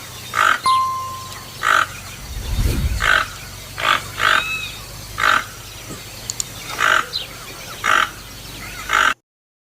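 Toucan calling: a short call repeated about eight times, roughly once a second, with other birds whistling faintly behind. A brief low rumble comes about two and a half seconds in, and the sound cuts off abruptly near the end.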